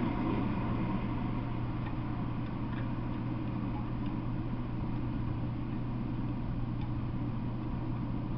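Rumble of a freight train fading away as it moves off, settling within the first second into a steady low hum with a few faint ticks.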